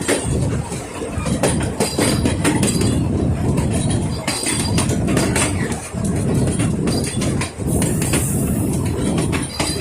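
Puffing Billy narrow-gauge steam train, hauled by NA class locomotive 8A, running along the line with a steady rumble and the wheels clicking and clattering over the rail joints. A brief high hiss comes about eight seconds in.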